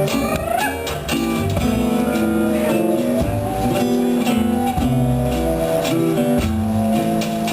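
Live music led by a plucked string instrument, guitar-like, picking out a changing melody over sustained lower notes.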